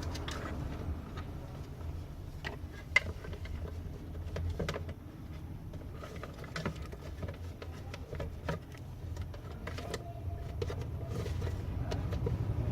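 Scattered light clicks and taps of small parts and hand tools being handled during the replacement of a mixer grinder's power lead, with one sharper click about three seconds in, over a low steady background rumble.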